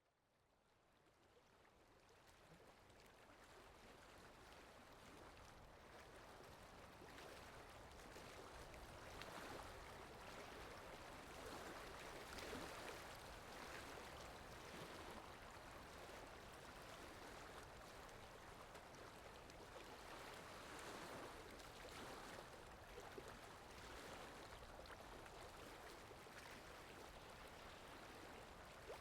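Faint, steady rushing noise like running water, fading in over the first few seconds and then holding with slight swells.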